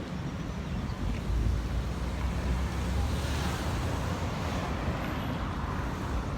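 Street traffic noise with wind rumbling on the microphone; a passing vehicle's hiss swells and fades about three to four seconds in.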